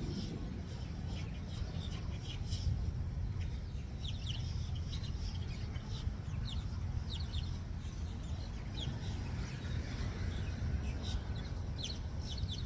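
Birds chirping in short, repeated calls from about two seconds in, over a steady low rumble.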